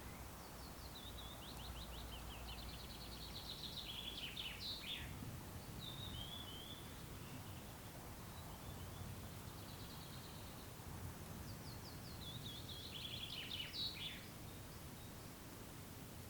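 A songbird singing two phrases of rapid trills that end in a quick downward flourish, the second about ten seconds after the first, with a short faint call between them. Underneath is a steady, faint low background hush.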